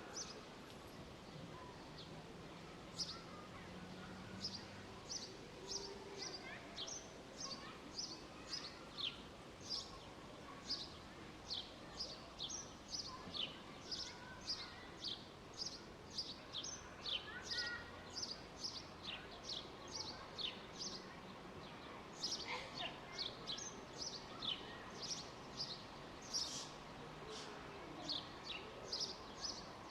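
A songbird repeating short, high chirps about twice a second, over a steady low background noise of open-air ambience.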